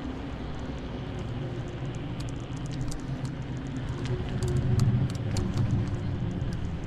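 Electric scooter rolling over pavement: a steady low road rumble from the wheels that swells about four to five seconds in, with scattered light rattling clicks.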